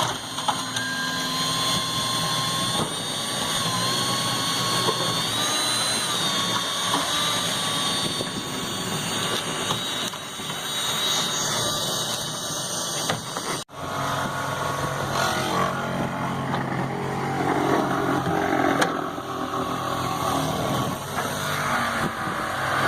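A motor running steadily with a high whine that drifts slightly in pitch. A sudden cut about fourteen seconds in gives way to a lower, rougher machine hum.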